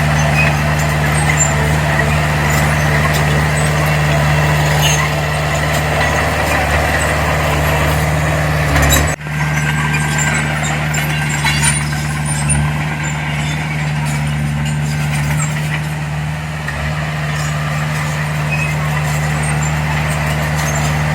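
Diesel engine of earthmoving machinery running steadily with a constant low hum. The sound dips out sharply for a moment about nine seconds in, then resumes.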